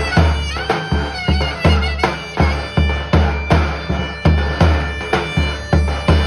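Traditional folk music: a shrill reed pipe plays a wavering melody over a bass drum struck in a steady beat, about three strokes a second.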